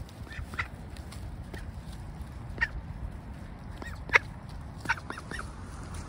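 Birds giving short calls at scattered moments, the loudest about four seconds in.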